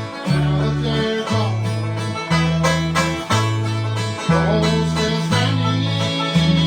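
Hard-driving bluegrass played without singing: banjo and guitar picking over a bass line that alternates between two notes about once a second.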